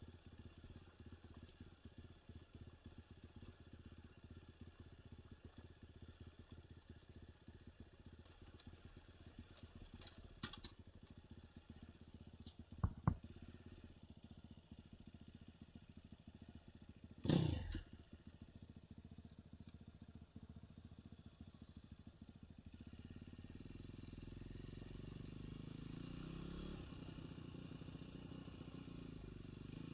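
Enduro dirt bike engine running slowly at low revs, with a sharp double knock partway through and a brief sudden swish a few seconds later. Later the engine note gets louder and rises as the bike picks up revs.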